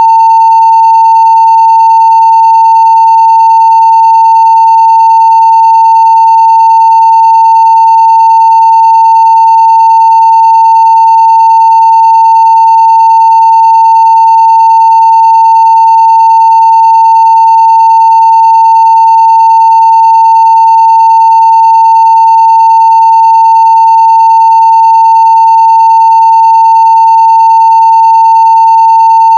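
Continuous 900 Hz sine-wave test tone at full scale (0 dBFS): one steady, loud, unwavering pitch.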